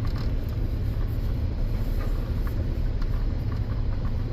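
Road noise inside a moving vehicle: a steady low rumble of engine and tyres while driving.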